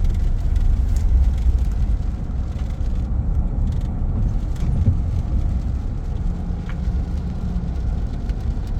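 Pickup truck cabin on the move: steady low engine and road rumble while driving along straight.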